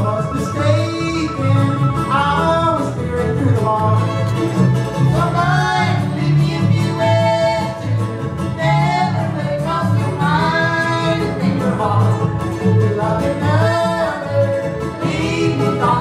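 Old-time string band of fiddle, mandolin, guitar and upright bass playing a lively fiddle tune. The fiddle melody slides over the strummed and picked strings, and the bass plucks a steady beat about twice a second.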